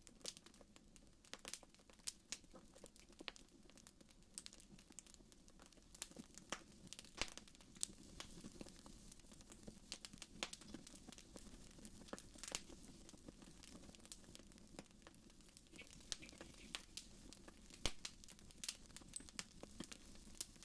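Wood fire in a fireplace crackling: faint, irregular pops and snaps, a few sharper than the rest, over a steady low background noise.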